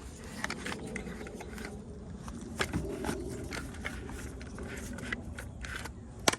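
Handling noise as a chemical coil-cleaner container is worked: irregular short clicks and scraping throughout, with one sharp knock near the end.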